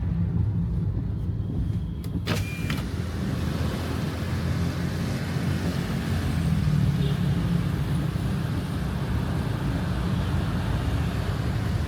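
Car heard from inside the cabin: a steady low engine and road rumble. About two seconds in there is a sharp click, and after it a steady hiss of rain and a wet road fills in.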